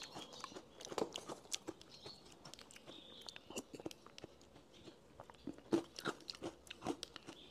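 Quiet, irregular small crunches and clicks: chewing of crunchy yogurt topping, mixed with a plastic spoon knocking and scraping inside a paper yogurt cup.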